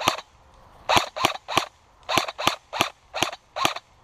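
Airsoft gun firing single shots in quick succession, about nine sharp pops at uneven intervals, a few tenths of a second to half a second apart.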